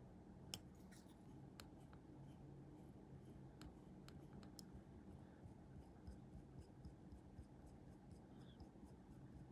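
Near silence over a steady low room hum, with a few faint, light clicks and ticks from small plastic model-kit parts and hobby tools being handled, most of them in the first half.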